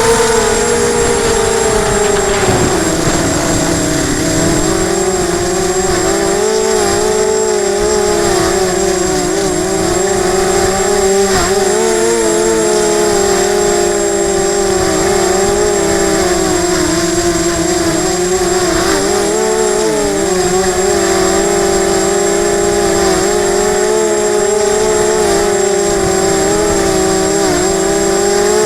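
Emax 250 quadcopter's brushless motors and propellers whining steadily in flight. The pitch drops about three seconds in as the throttle eases, then comes back up and wavers with small throttle changes.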